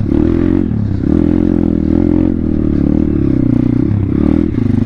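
Single-cylinder four-stroke engine of a 2019 Thumpstar 140cc pit bike running under throttle while being ridden. The pitch dips briefly about a second in and again near the end as the throttle is eased and reopened.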